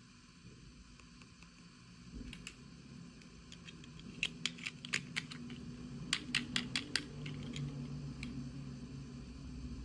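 Small plastic toy pieces or packaging being handled during an unboxing: scattered sharp clicks and taps, in quick runs of several clicks about four seconds and six seconds in. A low hum comes up in the second half.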